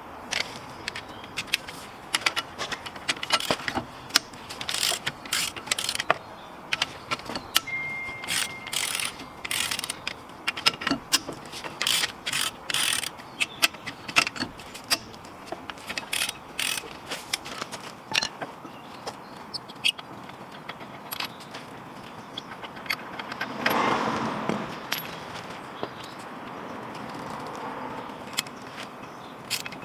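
Hand tools working on a van's front brake assembly: many irregular sharp metallic clicks and knocks, with a brief louder rushing sound about 24 seconds in.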